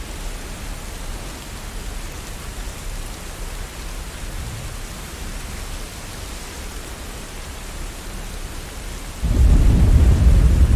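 Steady rain falling, with a loud low rumble of thunder breaking in suddenly near the end.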